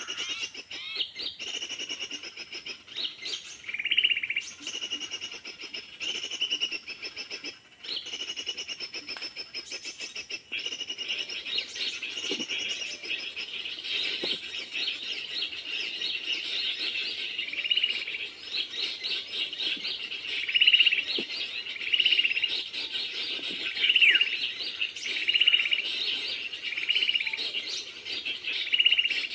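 Many small birds calling and chirping in a continuous busy chorus, with a short call repeated about once a second in the second half.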